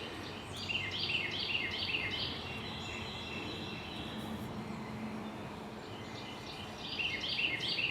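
A bird singing in the background: a run of short, high, falling chirps, about four a second, near the start and again near the end, over faint outdoor background noise.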